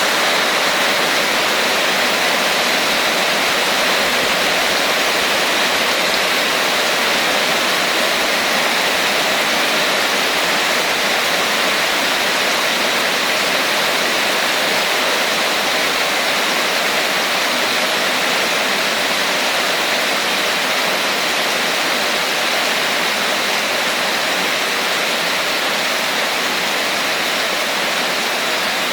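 Heavy rain falling steadily: a dense, even wash of sound with no separate drops or thunder standing out.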